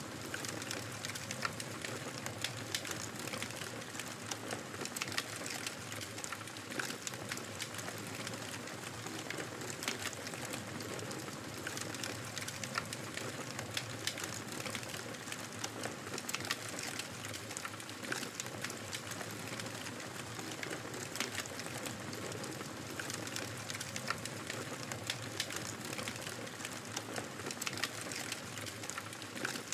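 Wood fire crackling in a fireplace: a steady low hiss with many small, irregular sharp pops.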